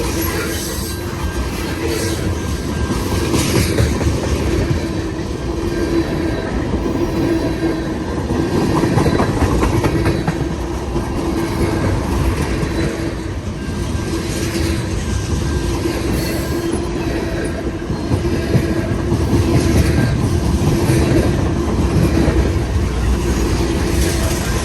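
Freight cars of a CN mixed freight train rolling past, steel wheels clacking over rail joints in a steady, repeating rhythm, with a continuous ringing hum from the wheels on the rail.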